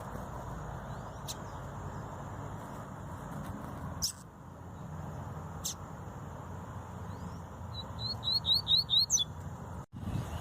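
Double-collared seedeater (coleiro) calling: a few single sharp chips, then near the end a quick run of about six short rising notes, over a steady low background hiss.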